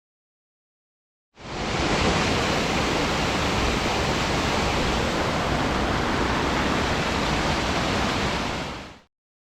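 Steady rush of a waterfall, fading in after about a second and a half of silence and fading out near the end.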